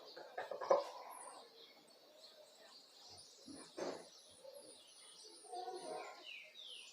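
Small birds chirping: a run of short, high, falling chirps repeated several times a second through the second half, with a few lower falling calls near the end.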